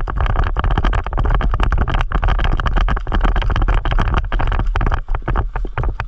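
Airsoft guns firing fast, a long unbroken string of sharp shots at about ten a second.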